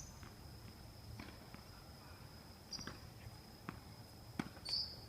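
Scattered sharp knocks of tennis balls being hit and bouncing on a court, irregular and spaced out, over a steady faint high tone.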